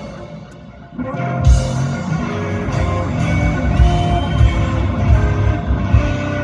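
Live electric blues band playing: electric guitar over bass and drum kit. The band drops back for about the first second, then comes back in at full volume, with a bent guitar note near the middle.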